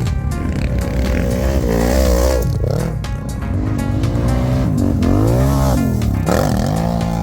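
Quad bike (ATV) engine revving up and down over and over, its pitch rising and falling about once a second, with music playing over it.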